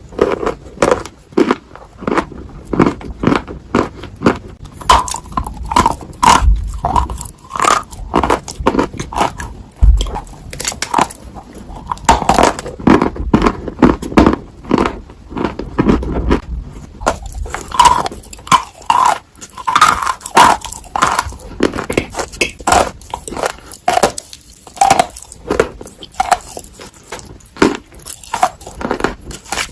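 Close-miked biting and chewing of dry Ural clay: a fast, irregular run of crisp crunches and crackles as the chunks break between the teeth.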